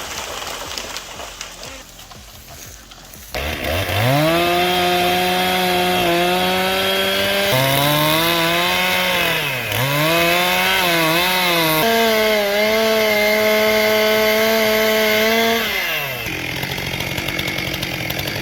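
Two-stroke chainsaw revving up hard a few seconds in and held at full throttle, the engine pitch dipping a few times about halfway as it takes load, likely from cutting wood. Near the end it drops back to idle.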